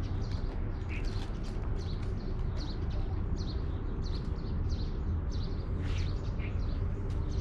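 A small bird chirps over and over outdoors, one short high call about every two-thirds of a second, over a steady low rumble.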